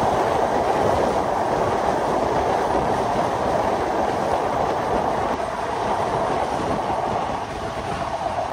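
Passenger train running on the rails: a steady, even rushing noise of the carriages and wheels on the track.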